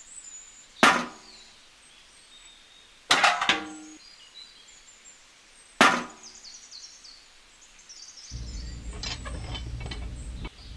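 Small tin pails clanking with a brief metallic ring as they are set down, three times (the second a double knock). About eight seconds in, a small electric motor starts, a steady hum with a rapid clicking of toy gears.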